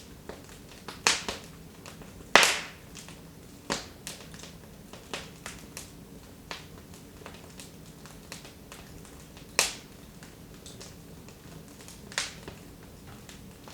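Wood fire in a fireplace, burned low, crackling: scattered sharp pops and snaps at irregular intervals, with a handful of louder snaps.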